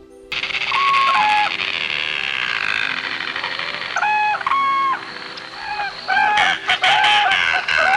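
Domestic fowl calling: short, clear-pitched calls in a few groups, coming more often near the end, over a steady high-pitched chatter of other birds.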